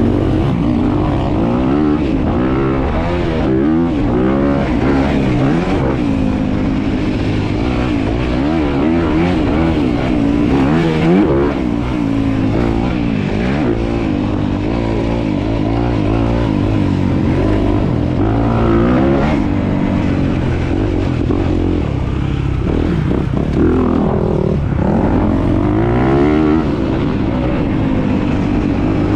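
Dirt bike engine revving up and down over and over, its pitch rising and falling as the throttle is worked through the gears.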